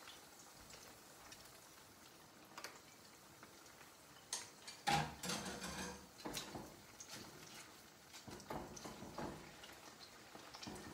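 Chicken pieces shallow-frying in hot oil in a wok, a soft steady sizzle. From about four seconds in, a slotted spatula knocks and scrapes against the wok as the pieces are moved, the loudest knock just after the first.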